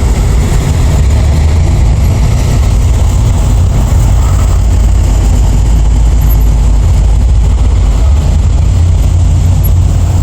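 Hot rod and classic car engines running steadily at low speed, a loud, even low rumble.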